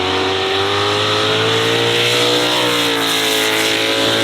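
McMurtry Spéirling electric fan car running up the hill, its whine rising steadily in pitch and then easing back down about two and a half seconds in.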